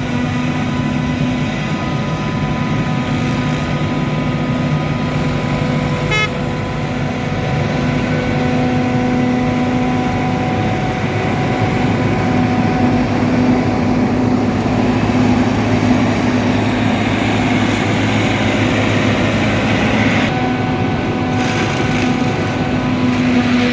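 Combine harvester's diesel engine and threshing machinery running steadily at work, with a constant hum and a few slight shifts in pitch. A short quick rattle of ticks sounds about six seconds in.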